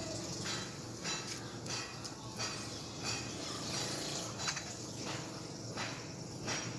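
Birds giving harsh, rasping alarm calls over and over, about two a second, typical of birds mobbing a snake.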